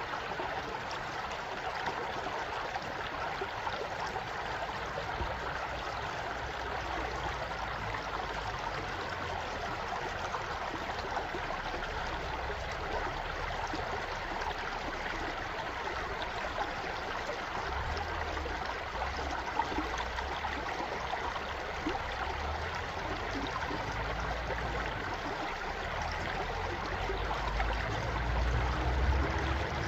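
A small stream flowing steadily over rocks, an even rushing and trickling. Bouts of low rumble come in during the second half and are strongest near the end.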